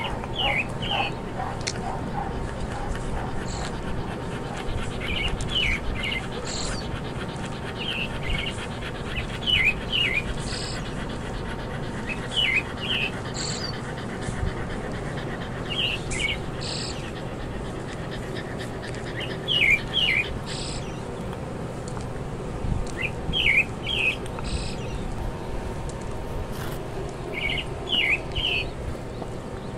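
A bird calling a quick two- or three-note chirping phrase, repeated about every three to four seconds, over a steady low background hum.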